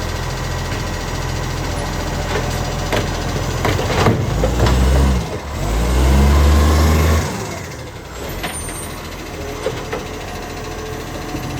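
Acco garbage truck's engine, which has an exhaust leak, running at idle, then revving up for about three seconds around the middle before dropping back, with a few sharp knocks just before the rev.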